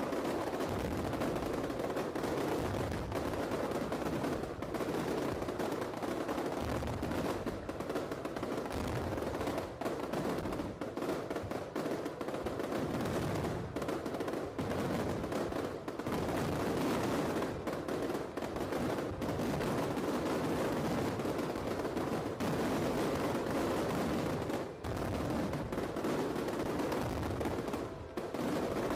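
Aerial fireworks going off in a dense, continuous barrage of rapid bangs and crackles, like a long burst of machine-gun fire.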